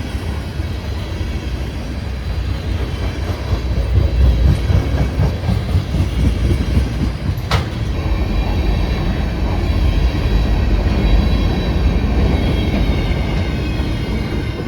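A train rolling past, its wheels rumbling steadily on the rails, with one sharp metallic clank about halfway through.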